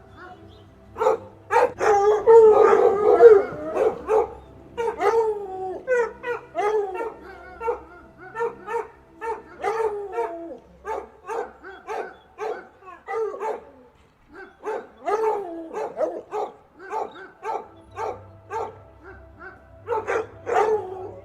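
Dog barking and yipping in runs of short barks, densest and loudest in the first few seconds, then about one or two barks a second with a short pause past the middle.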